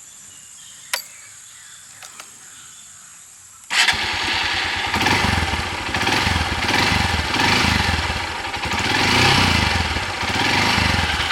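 Honda XR 150L's air-cooled 150 cc single-cylinder engine starting suddenly about four seconds in, then running steadily with a quiet exhaust note. Before it starts there is only faint background hum and a single click.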